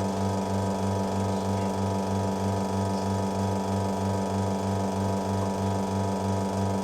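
La Cimbali espresso machine's pump running steadily as a volumetric espresso shot extracts: a mechanical hum with a low throb pulsing about four times a second.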